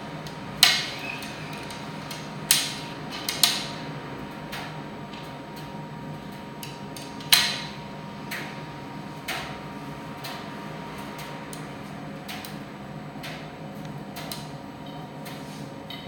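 Primus tumble dryer running with a steady hum, with sharp metallic clinks and knocks at irregular intervals a second or more apart.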